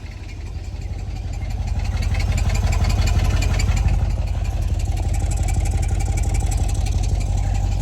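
Car engine running through a muffler-deleted exhaust, growing louder over the first few seconds and then holding steady. A light rapid rattle runs over the rumble, which the owner puts down to a loose flap inside the exhaust.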